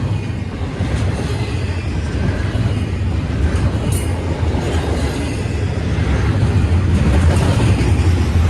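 Freight train rolling past, a steady low rumble of cars on the rails that grows a little louder toward the end, with one brief sharp click about four seconds in.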